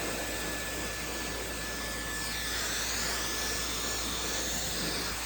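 Maxodo high-speed hair dryer running on its cool setting: a steady rush of air with a high motor whine. About two seconds in, the pitch of the whine starts to waver up and down.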